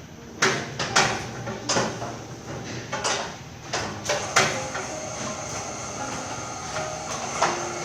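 Irregular sharp metal knocks and clanks from work on a metal roller shutter, about six in the first half and one more near the end, over a steady background noise.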